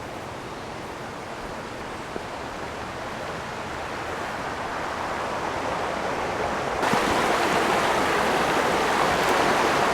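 Rushing river water: a steady, even noise that grows slowly louder, then steps up suddenly about seven seconds in.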